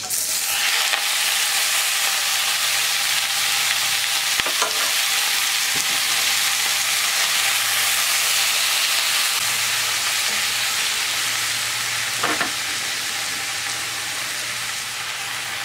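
Chinese leafy greens sizzling in hot oil as they stir-fry in a pan, a steady loud hiss that eases slightly toward the end, with two brief clicks.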